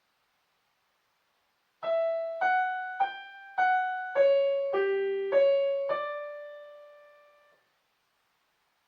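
Piano playing a short melody line of single notes, about eight evenly spaced, the last one held and dying away.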